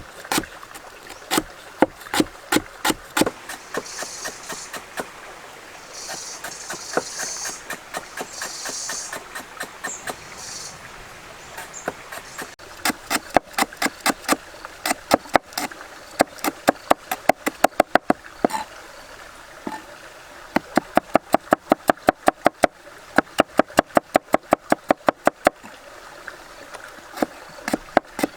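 Fast runs of sharp knocks on wood, about four or five a second, the rapid chopping rhythm of food preparation on a board. A high hiss comes and goes between about four and ten seconds in.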